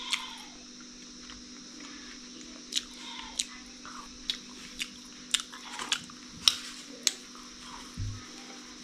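A person chewing a mouthful of boiled pork: irregular wet clicks and smacks of the mouth, about one or two a second, with a dull knock near the end.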